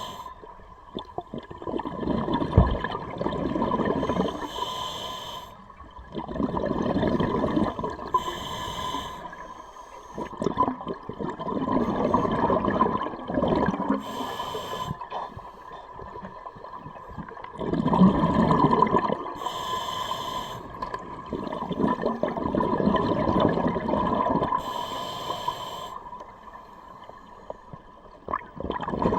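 Scuba diver breathing underwater through a regulator: slow breaths, each followed by a burst of exhaled bubbles, about every five or six seconds.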